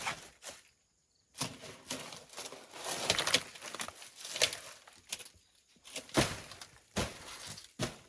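Irregular rustling and scraping with a few sharp knocks, several short bursts a second, like things being handled and moved by hand.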